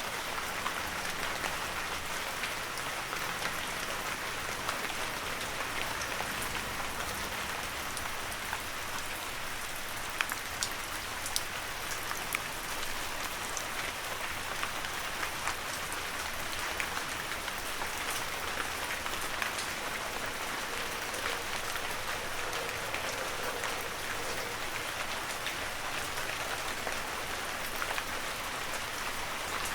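Heavy rain falling steadily, an even hiss with many individual drops pattering, a few sharper drop hits standing out now and then.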